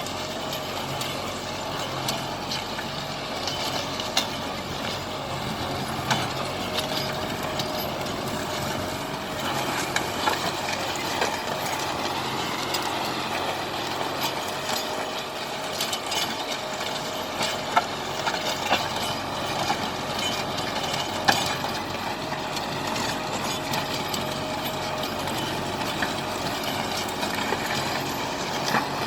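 Kubota tractor's diesel engine running steadily, with scattered sharp clanks and rattles on top.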